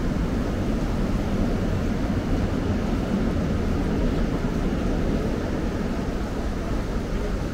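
Steady low rumble of a Line 1 commuter train running through the station.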